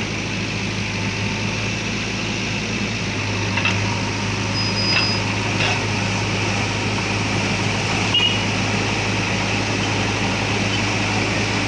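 Steady low hum of a vehicle engine running at idle, with a few faint brief clicks and chirps over it.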